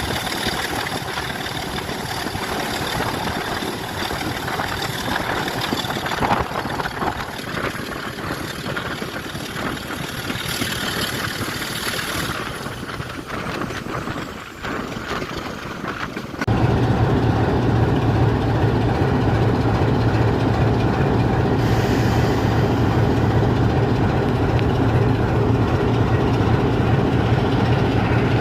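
Railway locomotive and train noise: a busy, uneven rumble for about the first sixteen seconds, then after an abrupt change a louder, steady low engine drone.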